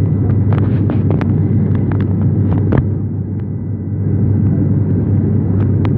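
Airplane cabin noise: a steady, loud, low drone of engines and airflow heard from inside the plane, with scattered small clicks and knocks on top.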